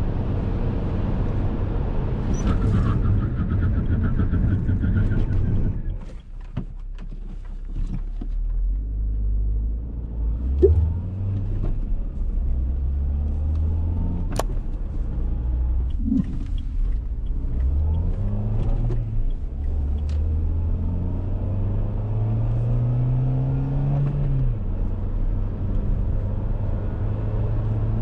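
Dacia Duster 1.6 SCe naturally aspirated four-cylinder petrol engine pulling the car away. For the first six seconds steady road and tyre noise dominates, then it drops away. After that the engine note climbs and falls back several times as the car accelerates up through the manual gears, with a single sharp click partway through.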